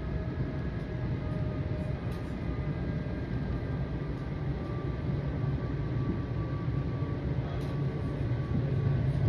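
PATCO Speedline rapid-transit train running at speed, heard from inside the car: a steady low rumble of the wheels on the track with faint, steady whining tones above it.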